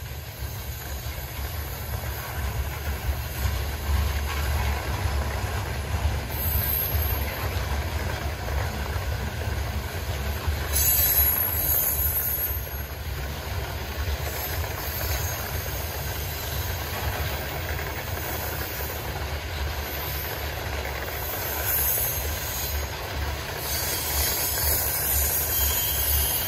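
Freight train cars rolling past with a steady low rumble of wheels on rail, and high-pitched wheel squeal rising about eleven seconds in and again over the last few seconds.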